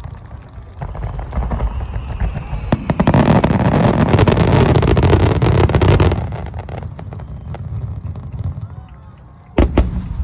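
Aerial fireworks shells bursting in a rapid, dense crackling barrage that is loudest for a few seconds, then thins out, followed near the end by two sharp bangs.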